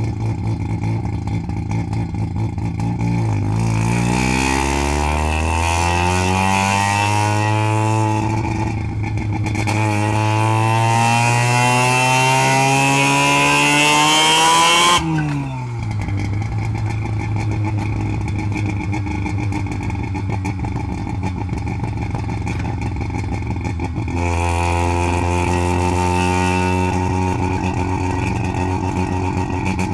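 Half-bridgeported Mazda 12A two-rotor rotary engine in a Toyota Corolla wagon accelerating through a gear change: the pitch rises for about five seconds, dips briefly at the shift, then climbs again. About halfway through the throttle is lifted and the pitch drops, and the engine settles into a steady note that steps up to a higher steady note near the end.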